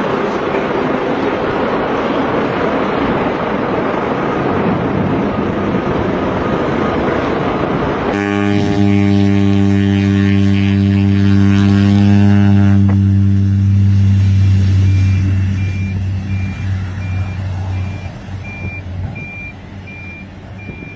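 Loud, steady rushing engine noise that gives way abruptly, about eight seconds in, to a loud, steady droning engine hum, which fades out over the next ten seconds. From about two-thirds of the way in, a repeated high beeping like a vehicle's reversing alarm sounds over it.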